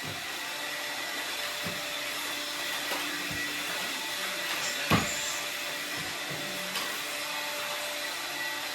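Vacuum cleaner running steadily with a hiss and a faint whine, with a few bumps and knocks as it is pushed around, the sharpest about five seconds in.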